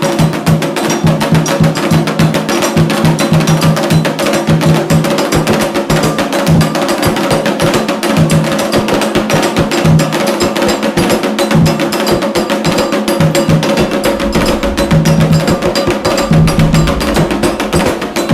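Candomblé drumming in a fast, steady rhythm: hand drums beating low under a rapid, bright clacking pattern of struck hits, with held tones above.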